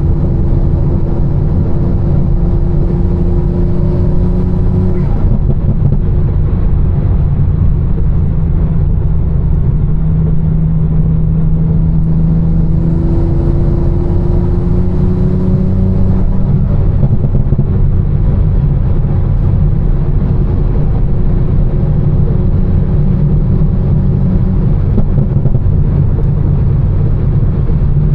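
Tuned 800 hp BMW M4's twin-turbo straight-six, fitted with catless downpipes and an Fi exhaust, droning steadily while driving, over a constant rush of tyres on a wet road. Twice the engine note climbs slowly under light throttle and then eases off, about five seconds in and again around sixteen seconds.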